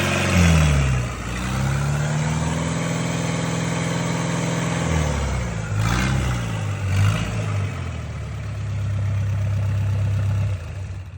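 Nissan QD32 3.2-litre four-cylinder diesel engine running and being revved. The revs fall, then rise and hold high for a few seconds, drop back with two quick blips, and settle to a steady idle before the sound drops away near the end.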